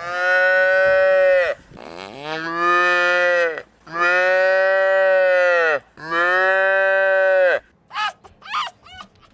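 Cattle mooing: four long calls in a row, each about a second and a half, the second one quieter, each dropping in pitch at its end. In the last second or so come a rapid series of short, high calls of another animal.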